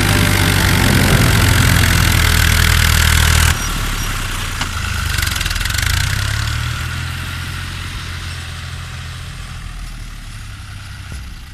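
Tractor diesel engine running loud and steady. About three and a half seconds in the sound cuts abruptly to a quieter engine that fades away gradually.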